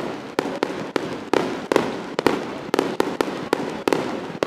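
Fireworks going off: an irregular series of sharp bangs, several a second, over continuous crackling.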